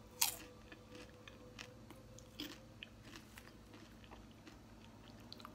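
A person biting into and chewing popcorn: one sharp crunch just after the start, then scattered small crunches, faint.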